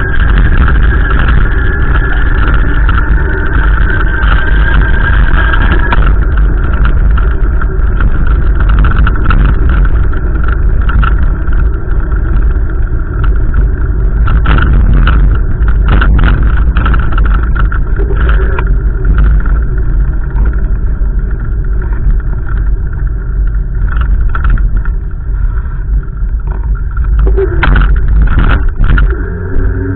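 Strong wind gusting over the microphone: a loud, continuous low buffeting rumble.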